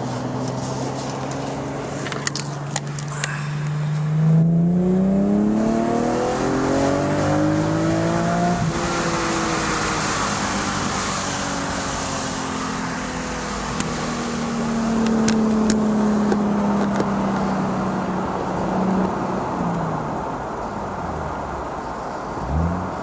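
Infiniti G37's 3.7-litre V6 through a Tanabe Medallion Touring exhaust with Ichiba Y-pipe, heard from inside the cabin. The engine note holds steady, then climbs for about four seconds as the car accelerates. It drops suddenly at an upshift and settles into a steady cruising drone that slowly eases lower.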